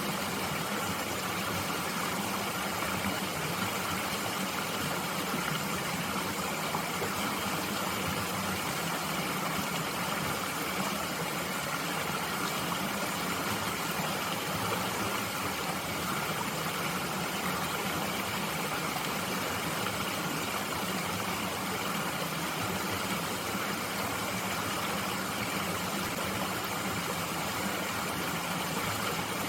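Mountain stream flowing steadily, a constant even rush of water.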